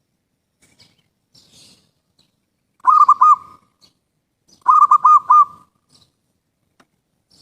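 Zebra dove (perkutut) cooing: two short phrases of rapid, bubbling coo notes about two seconds apart.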